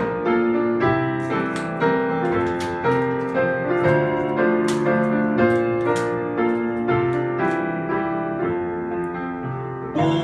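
Piano playing a slow, gentle instrumental passage: a melody of steady, evenly spaced notes over sustained chords.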